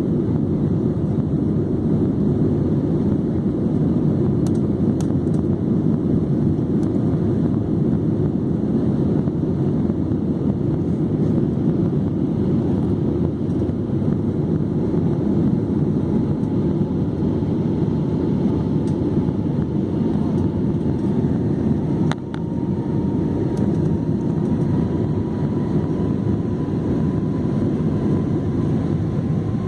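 Steady airliner cabin noise in flight: the engines' and airflow's low, even rush heard from inside the passenger cabin. A faint whine slowly rises in pitch in the second half, and there is a single brief knock about two-thirds of the way through.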